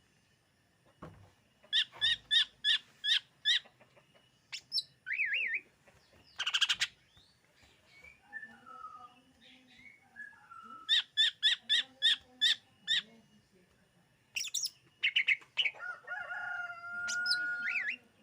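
Cucak ijo leafbird singing: fast runs of sharp repeated chirps, about five a second, mixed with whistled glides and varied phrases, broken by short pauses.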